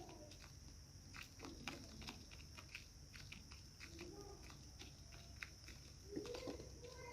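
Small pet parrots pecking and nibbling at food, many faint beak clicks, with a few short soft calls about one and a half, four and six seconds in.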